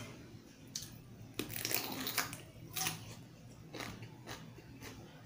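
Raw cucumber being chewed close to a clip-on microphone: wet, crackly crunching in irregular bites, densest and loudest from about a second and a half to just before three seconds in, then sparser crunches.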